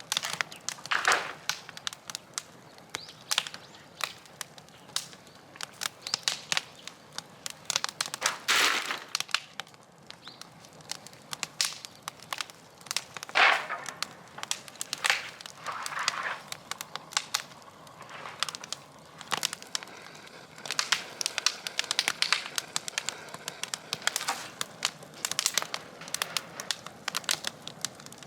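Scrap wood burning in a bonfire, crackling with many sharp pops, broken by a few louder rustling bursts.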